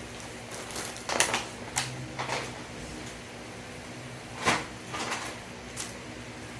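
Scattered knocks and rustles of objects being handled, the loudest about a second in and again past the middle.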